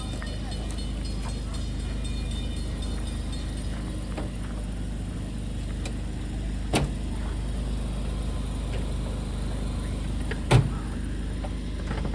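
A steady low engine rumble with two sharp knocks, the second and louder one near the end.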